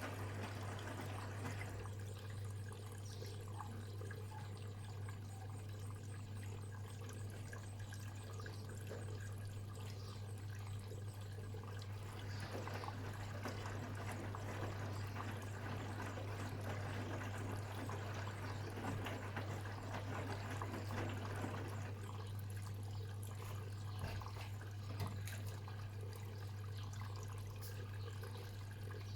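Bosch Serie 6 WAT286V0 washing machine mid-cycle: water sloshing in the turning drum over a steady low hum, swelling and easing about every ten seconds.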